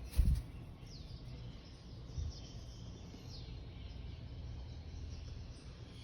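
Two faint, short bird chirps sliding downward in pitch over a steady low background rumble. A loud dull thump comes just after the start and a smaller one about two seconds in.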